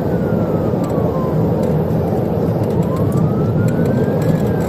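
Police siren on a slow wail, its pitch falling, rising, then falling again, under loud, steady engine and road noise from a vehicle in a high-speed pursuit.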